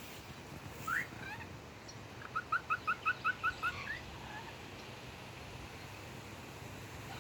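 A bird calling: one short rising note about a second in, then a quick run of about eight short, evenly spaced notes.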